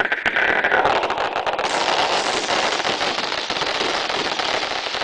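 Wood bonfire burning, with a dense, steady crackling and popping of the burning wood.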